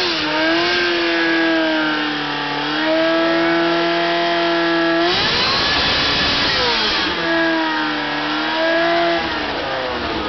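Ferrari Spider's engine revving while standing still. The revs are held high, drop off sharply about halfway, climb back and hold, then fall near the end.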